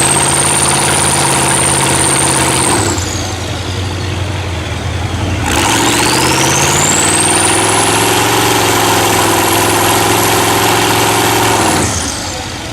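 Mud truck engine held at full throttle in two runs, with a high whine climbing in pitch alongside it. The first run breaks off about three seconds in. After a dip, the second climbs steadily and cuts off sharply near the end.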